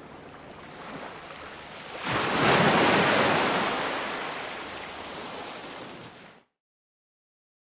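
Ocean waves: a wave breaks loudly about two seconds in and washes out slowly, then the sound cuts off suddenly into dead silence near the end.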